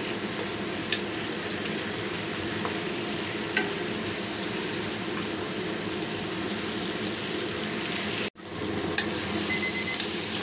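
Tomato wedges and oxtail frying with a steady sizzle in a non-stick wok, stirred with a wooden spatula that knocks lightly against the pan a few times. The sound cuts out for an instant about eight seconds in.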